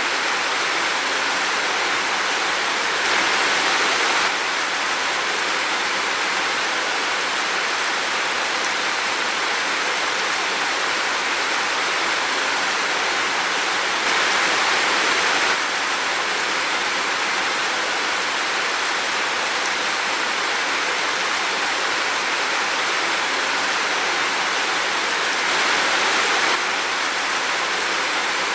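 Heavy rain falling as a steady, dense hiss, briefly a little louder three times.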